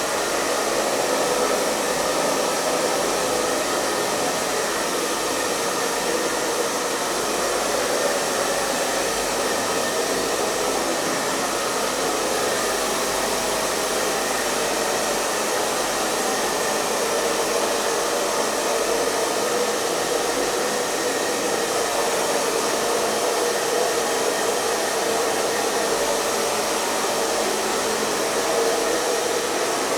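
Hair dryer running continuously at a steady speed, an even rushing of air with a faint motor hum underneath.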